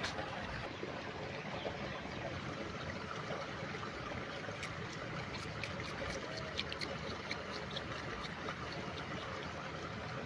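Steady trickling of running water. A scatter of light, quick clicks comes through in the middle.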